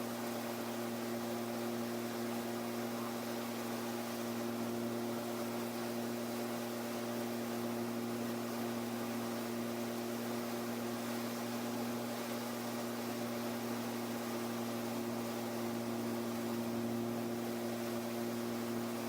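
Kallithea gyroplane's engine and pusher propeller droning steadily in cruise flight, one constant pitch over a hiss of airflow.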